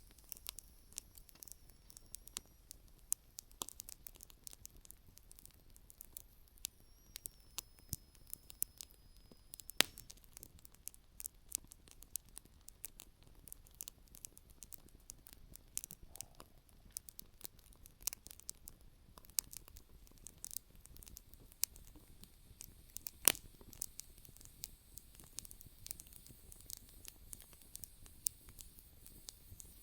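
Firewood burning in an open campfire, crackling with irregular small snaps and pops. Two sharp pops stand out, about ten seconds in and about twenty-three seconds in.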